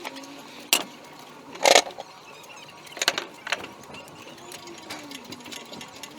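Several sharp metallic clicks and knocks from a flathead V8 engine being worked into place on an engine hoist. The loudest is a fuller clank about a second and a half in, with lighter clicks near the start and around three seconds in.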